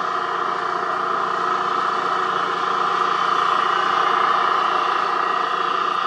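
Diesel engines of heavy road-paving machinery running steadily: a constant drone with a steady high hum over it.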